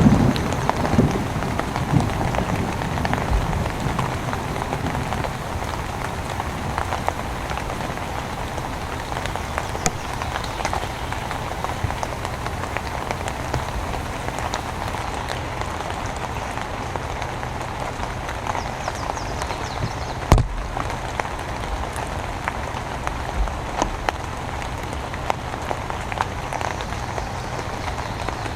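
Steady heavy rain, a continuous hiss with many separate drops ticking on nearby surfaces. A low rumble dies away in the first couple of seconds, and a single sharp knock stands out about two-thirds of the way through.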